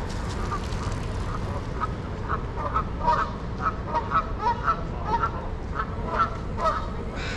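Birds calling: a run of short, repeated calls, about two a second, starting about two seconds in and running until near the end, over a steady low rumble.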